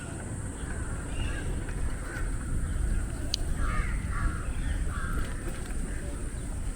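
Crows cawing, a series of short calls that come thickest around the middle, over a steady high-pitched insect drone and a low wind rumble.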